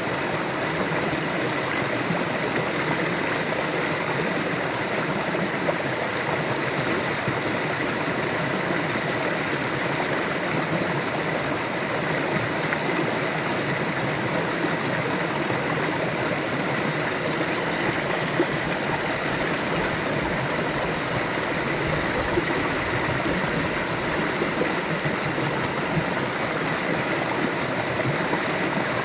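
River water flowing and rushing steadily over its bed, an even, unbroken wash of sound.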